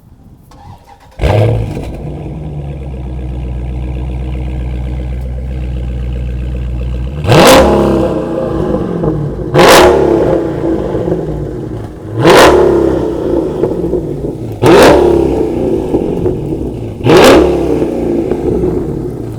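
2018 Dodge Charger Scat Pack's 6.4-litre Hemi V8 with a mid-muffler delete, starting about a second in with a loud flare and settling into a steady idle, then revved five times, each a quick climb in pitch that drops back to idle.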